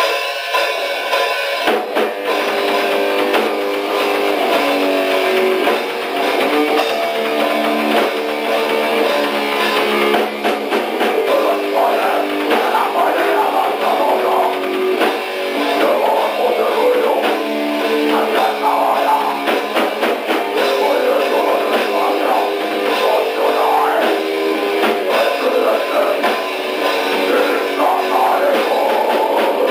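Raw punk demo recording, the intro track: electric guitar with drums playing steadily, with little low end.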